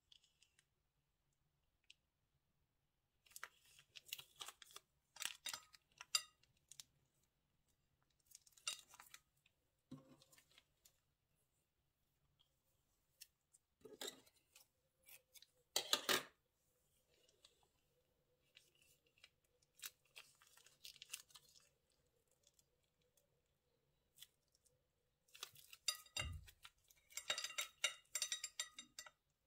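Plastic bags being handled and snipped with scissors: short bursts of crisp crackling and cutting sounds with near-silent pauses between them, and one soft thump near the end.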